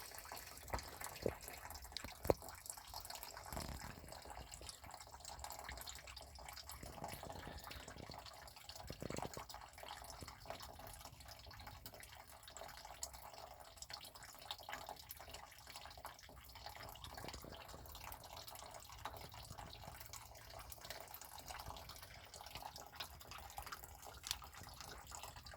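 Faint water dripping and trickling from the disconnected water heater plumbing, with a few brief handling clicks.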